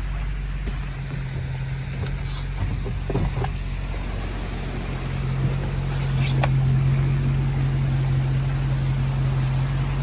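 A vehicle engine idling steadily. From about six seconds in, a louder rushing noise joins it as muddy floodwater runs across the road, with a click just before.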